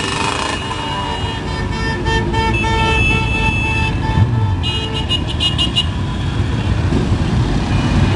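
Vehicle horns honking repeatedly over the steady rumble of motorcycle engines: a run of honks through the first half, then a quick volley of short, higher beeps about five seconds in.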